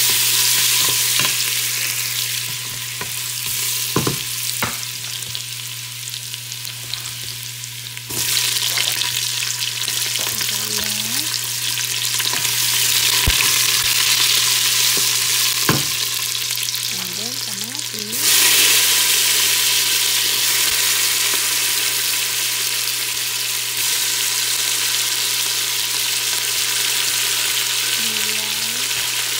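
Chopped garlic and ginger sizzling in hot oil in a stainless steel pot, stirred with a wooden spoon that knocks against the pot now and then. The sizzle gets louder about eight seconds in and again about eighteen seconds in, as sliced onion and then halved cherry tomatoes go into the oil.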